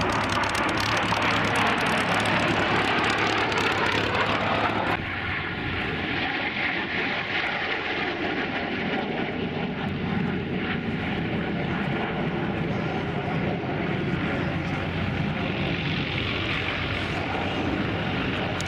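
Vintage jet fighters flying past, their jet engines making a loud rushing noise. About five seconds in the sound drops suddenly, leaving a steadier jet whine over the rush.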